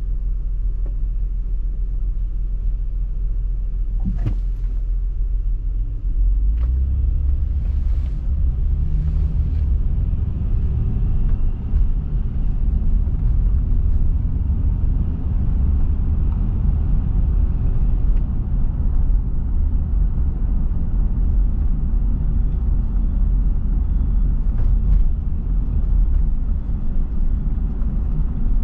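Car driving along a road: a steady low road and tyre rumble that grows louder about six seconds in, with a few faint brief swishes.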